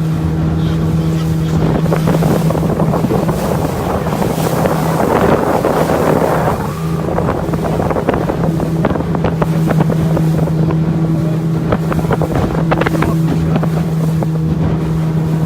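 Motorboat engine running at a steady pitch, with water rushing past the hull and wind buffeting the microphone. A surge of rushing water swells about two seconds in and dies away by about seven seconds.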